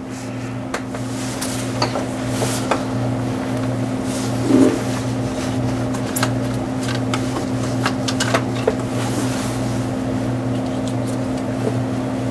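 Scattered clicks and light knocks of a ratchet and Torx bit working the serpentine belt tensioner as the belt is slipped off, with one louder knock about four and a half seconds in. A steady low hum runs underneath.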